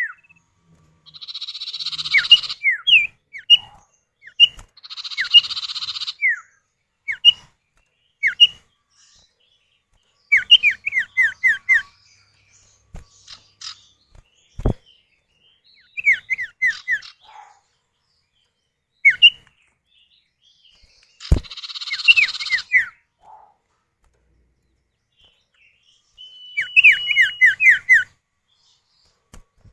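Common iora (cipoh) male and female calling back and forth: runs of quick, sharply falling whistled notes alternating with harsh buzzy rasps about a second long, with a held whistle near the end.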